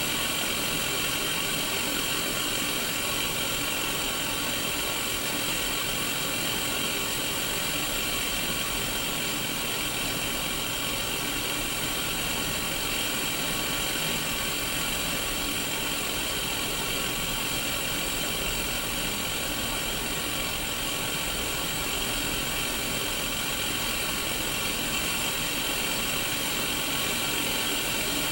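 Steady static hiss from a Sony Mega Watchman black-and-white mini CRT television showing white noise, even and unchanging.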